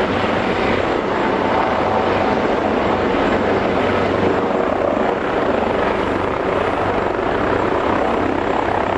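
Eurocopter AS365 Dauphin twin-turbine helicopter running close by, with its rotor chop and turbine noise loud and steady throughout.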